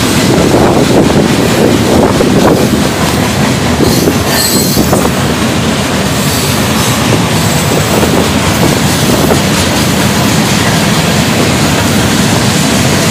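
Boxcars and flatcars of a passing freight train rolling by, a loud, steady noise of steel wheels running on the rails.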